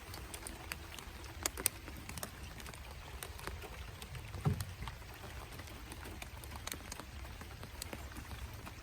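Scattered raindrops ticking irregularly over a low steady rumble, with a single dull thump about four and a half seconds in.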